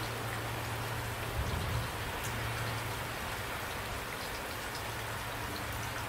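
Steady rain falling, an even hiss of many drops with scattered small ticks, over a low steady hum.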